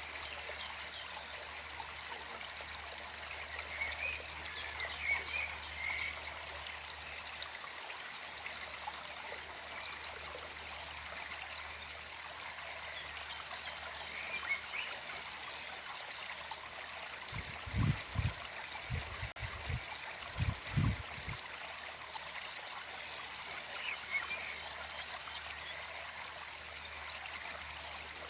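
Gentle forest stream flowing and trickling steadily. A bird repeats a short call of three or four quick high notes several times, with other faint chirps. A brief cluster of low thumps comes a little past the middle.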